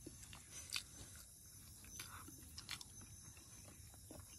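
Faint close-up eating sounds: chewing and mouth clicks as rice and chicken curry are eaten by hand, a few soft clicks over a steady faint high hiss.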